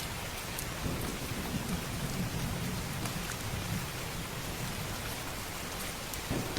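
Steady rain with a low rumble of distant thunder that swells about a second in and fades past the middle. Faint scattered ticks of drops sit over the rain.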